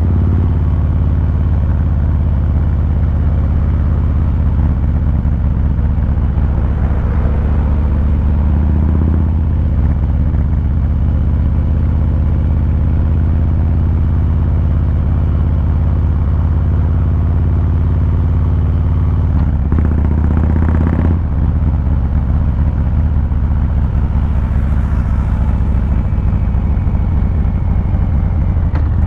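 2023 Harley-Davidson Fat Boy 114's Milwaukee-Eight V-twin running while cruising, with a low, steady exhaust note. The note changes briefly about 20 seconds in.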